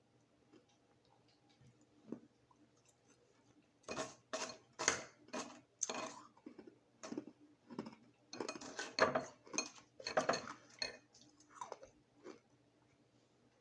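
Crushed ice crunching in two bursts of sharp, crisp crunches, the first about four seconds in and the second, loudest one about eight seconds in, with a few faint clicks before them.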